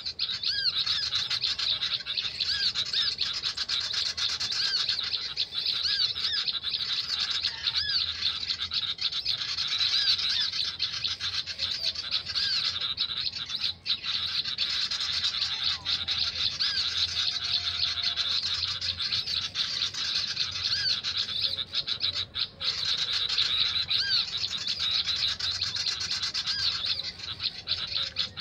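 Continuous rapid, high chirping of small songbirds, the same short chirps repeating densely over and over: a birdsong recording played through a speaker as a lure for trapping birds.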